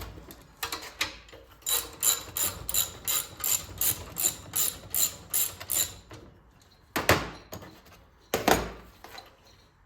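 Hand ratchet wrench clicking in short strokes, about three a second, as a fastener that has already been broken loose is run out during the engine teardown. Two louder metallic knocks follow near the end.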